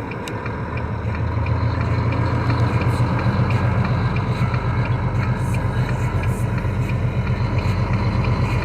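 Car engine and road noise heard from inside a moving car: a steady low rumble that grows louder about a second in as the car picks up speed.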